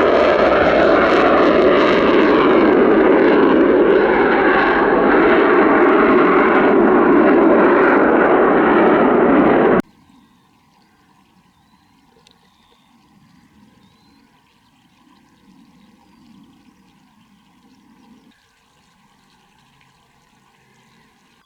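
Eurofighter Typhoon jet engines running loud during a departure, a dense rumbling roar that cuts off abruptly about ten seconds in, leaving only faint outdoor background.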